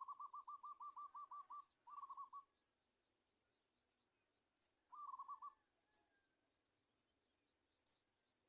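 A bird calling in quick trills of short notes, about seven a second: a long run of about ten notes at the start, a short run about two seconds in and another about five seconds in, with a few faint high ticks between them.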